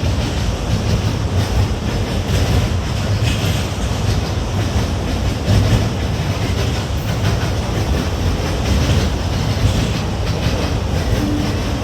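Freight train rolling past, a steady rumble of cars with the clickety-clack of wheels over rail joints.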